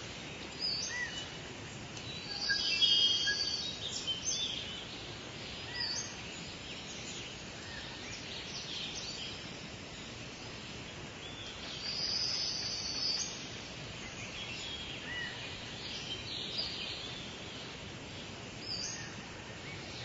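Wild birds calling: high chirps and trills over a steady background hiss, loudest about three seconds in and again about twelve seconds in, with scattered single chirps between.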